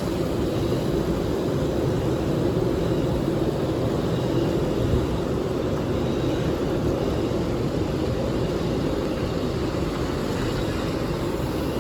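A city bus's engine running steadily with a low, even rumble and no sudden changes.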